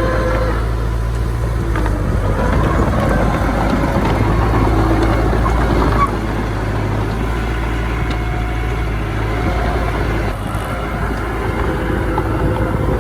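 Diesel earthmoving machinery running with a steady low rumble, its wavering higher tones coming and going, dipping slightly in level about halfway through.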